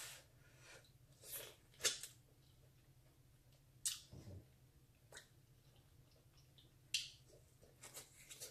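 Corn on the cob being bitten and chewed close to the microphone: a string of short, crisp crunches and wet mouth clicks spread out with pauses between them, the sharpest about two seconds in.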